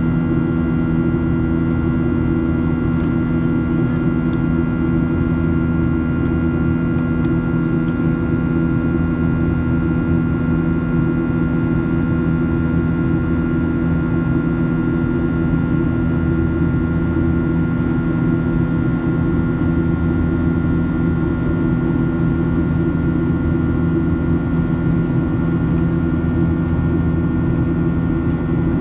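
Cabin noise of a Boeing 737-800 in flight: a steady drone of its CFM56-7B turbofan engines and airflow, with several fixed humming tones running through it and no change in level.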